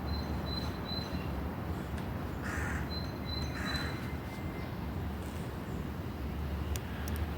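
A crow calling two short harsh caws about a second apart, a few seconds in, with faint high thin notes of a small bird and a steady low rumble of ambient noise.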